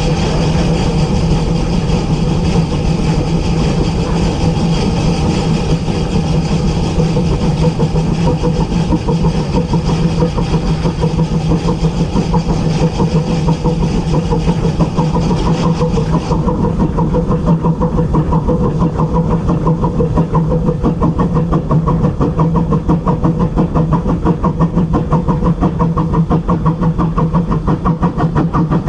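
Locomotive running: a steady engine drone with a regular pulsing beat. Partway through, the high hiss fades and the beat becomes more distinct.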